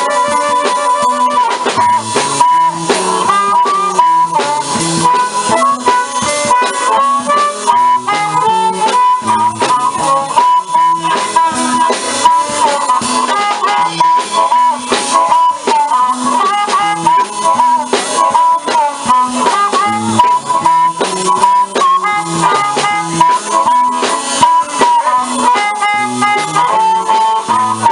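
Blues band playing live: a harmonica leads with bending notes over a walking bass line and drums.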